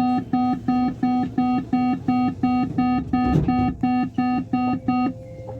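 Door-closing warning beeper on a Lyon Metro line B train: a rapid run of identical beeps, close to three a second, that stops about five seconds in as the doors shut before departure. A steady hum from the train runs underneath.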